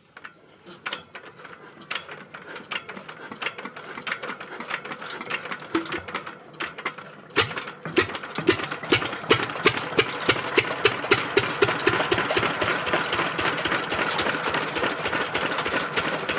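Pumpset engine driving a chaff cutter: a rhythmic mechanical clatter. It grows louder and faster through the first half, then runs steadily at a fast knock.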